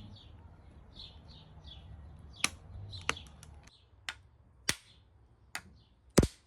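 A bird chirping in quick short notes, with six sharp clicks or knocks in the second half, the last one the loudest.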